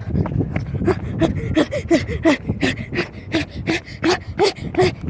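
A person panting hard while running, quick voiced breaths about three a second.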